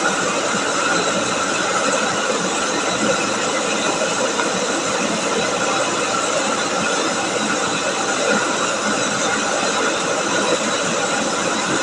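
Rice milling machine running steadily: a constant, even mechanical whir and hiss with no breaks.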